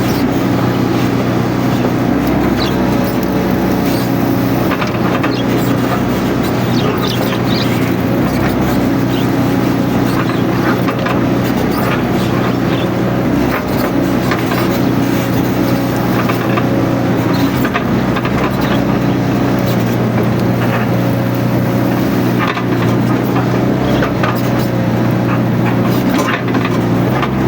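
Mini excavator's diesel engine running steadily while working, with scattered knocks and clanks of the machine throughout.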